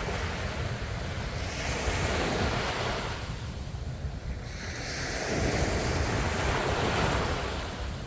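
Sea waves washing onto the shore: two swelling rushes of surf, one about two seconds in and another about five seconds in, each building and then fading, over a steady low rumble.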